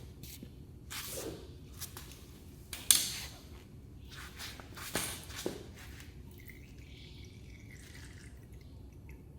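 Sharp knocks and clinks of tools and parts being handled during a motorcycle oil change, the loudest about three seconds in, with a dripping sound. The clatter eases off in the second half.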